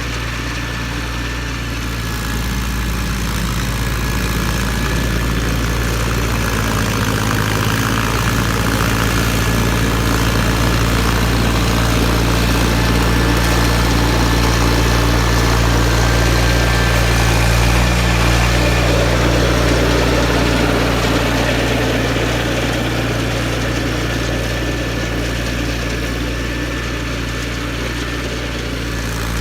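John Deere 318 garden tractor's two-cylinder Onan engine running steadily while powering its Model 49 snowblower, growing a little louder through the middle and easing off near the end.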